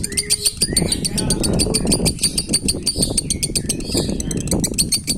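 A lovebird singing a long, unbroken 'konslet' chatter: a rapid stream of sharp, high clicking chirps with no pause, and a couple of short rising notes near the start.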